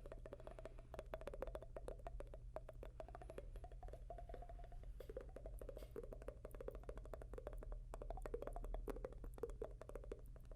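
ASMR mouth sounds made close to the microphone: a fast, uneven run of wet tongue clicks and pops, dense and continuous.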